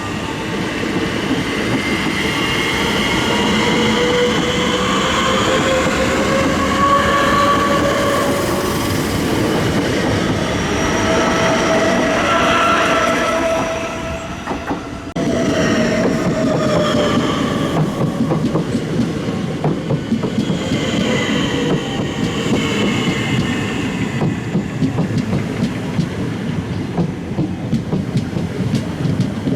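Electric passenger train running through, with a dense rumble of wheels on rail and motor whines that glide up and down in pitch. Wheel clicks over rail joints come through in the second half. The sound drops briefly about halfway through, then comes back up.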